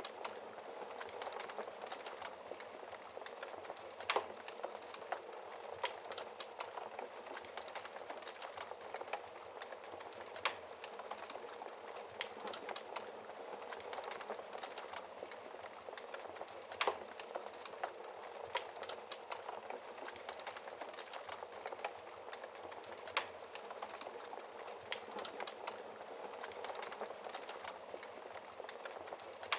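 Fire crackling: a steady, dense patter of small crackles with four louder, sharp pops spaced about six seconds apart.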